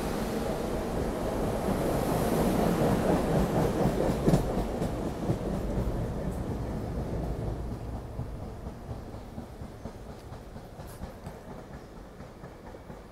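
SEPTA Regional Rail electric commuter train moving past the platform. Its rumble is loudest a few seconds in, then fades away steadily.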